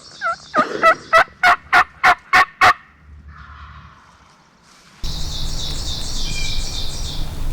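A series of turkey yelps: a few short curving notes, then a run of about eight sharp, evenly spaced yelps at about three a second that stops after a few seconds.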